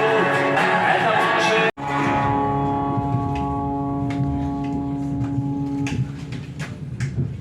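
Music plays, then cuts off abruptly about two seconds in. A single guitar chord follows, ringing steadily for about four seconds before dying away, with a few faint clicks near the end.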